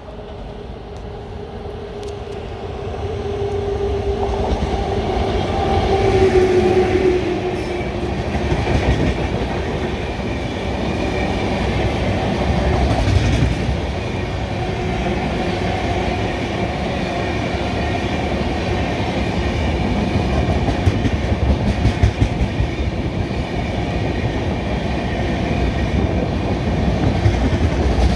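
An Indian Railways WAP-7 electric locomotive drawing a long passenger train approaches and passes, its hum dropping in pitch about six seconds in. The coaches then roll by with a steady clickety-clack of wheels over rail joints.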